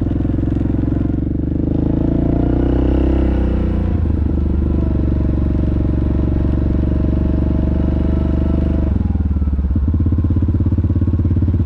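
Yamaha Grizzly ATV engine running steadily under way. Its note rises briefly about two seconds in, settles, and changes again near nine seconds in.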